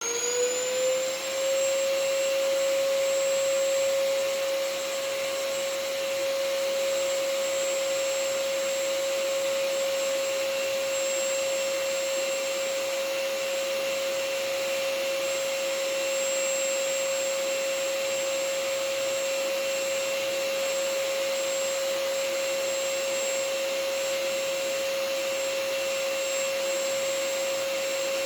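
Vacuum cleaner switched on, its motor whine rising over the first second or so as it spins up, then running steadily as a constant high whine over an even rushing hiss.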